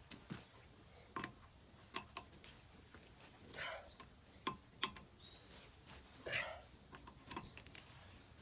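Final tightening of a car's wheel nuts with a hand wheel wrench: scattered sharp metallic clicks and knocks from the wrench on the nuts, with two short straining breaths from the effort.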